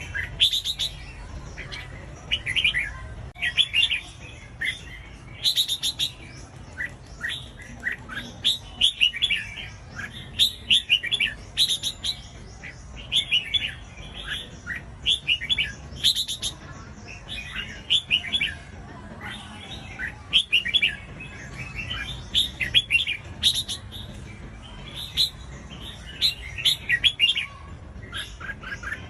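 Red-whiskered bulbul singing: short, quick chirping phrases repeated every second or two.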